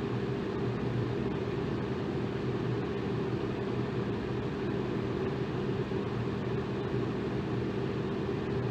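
Electric fan running steadily: an even whoosh of moving air with a low motor hum underneath.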